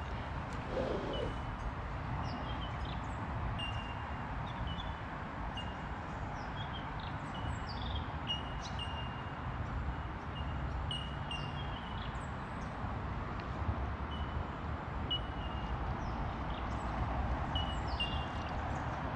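Small birds chirping with short, high notes repeated every second or so, over a steady low rumble.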